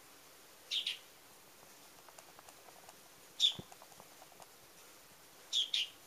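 A small bird perched at a window giving short, sharp chirps that drop in pitch: a double chirp about a second in, a single one midway, and another double chirp near the end.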